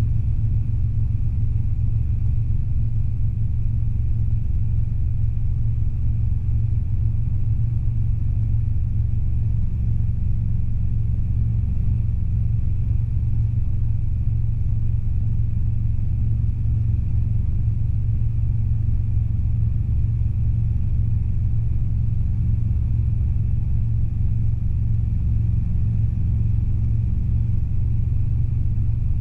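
Steady in-flight cabin drone of a Robinson R22 helicopter in a climb: engine and two-blade rotor noise as a low rumble, with a faint high whine above it.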